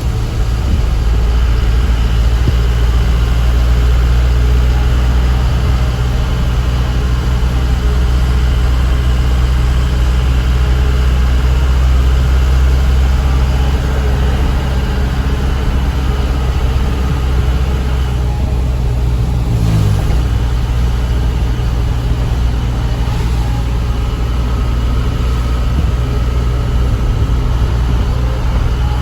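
Diesel truck engine running steadily under way, with its engine note dipping briefly about twenty seconds in, as at a gear change.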